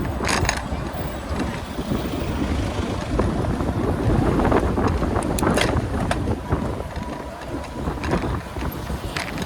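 Wind buffeting the microphone of a camera carried on a moving bicycle, a steady low rumble, with a few sharp clicks or knocks.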